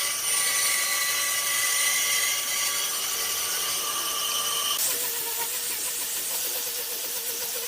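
An electric power tool running with a steady high whine; about five seconds in its tone changes to a hissier sound with a wavering pitch.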